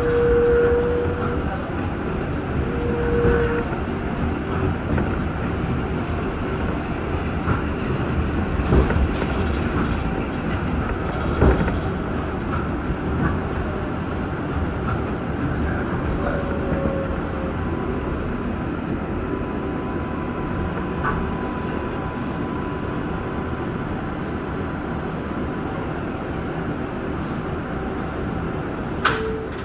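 R188 7 subway train running with a steady rumble, with a few brief high squeals and scattered clicks from the wheels and rails.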